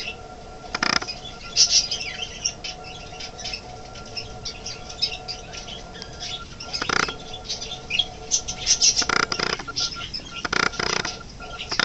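Budgerigars chirping and chattering rapidly, with a few brief louder rustles about one, seven, nine and ten and a half seconds in.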